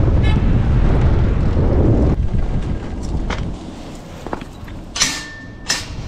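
Wind buffeting the microphone of a bike-mounted camera while riding, loud and gusty, dropping away about two seconds in. After that, quieter street noise with a few sharp clicks and two short hissing bursts near the end.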